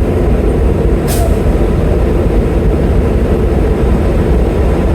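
Semi truck's diesel engine running: a steady low rumble, with a short hiss about a second in.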